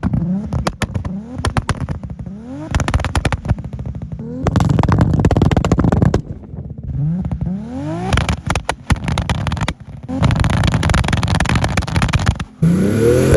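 Heavily tuned big-turbo Toyota Supra MK4's 2JZ straight-six being revved hard again and again, its pitch sweeping up with each pull. Between the pulls come rapid bursts of popping and banging from the antilag system.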